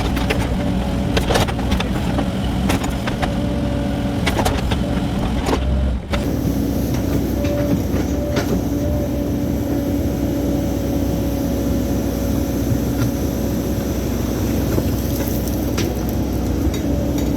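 Cat mini excavator's diesel engine running steadily under a hydraulic whine, with scattered clicks and knocks in the first few seconds. A brief dip about six seconds in, after which the engine drone carries on evenly.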